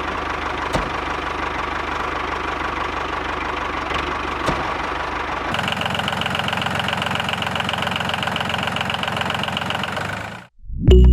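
A small motor running steadily with a rapid, even knock. Its sound changes about five and a half seconds in, and it fades out near the end, just before music starts.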